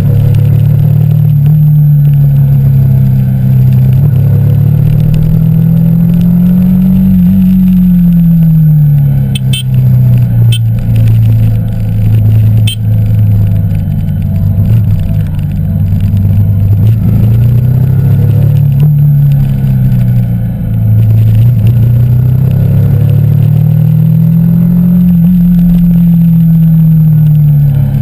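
Yamaha YZF-R15 v2.0's 150 cc single-cylinder engine, fitted with a K&N air filter, running under way. Its pitch rises and falls slowly several times as the rider opens and closes the throttle.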